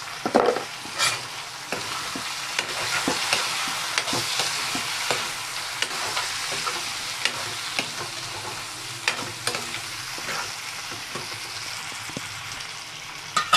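Chicken pieces and sliced onions sizzling in hot oil in a frying pan while a spatula stirs them, with scattered clicks and scrapes of the spatula against the pan.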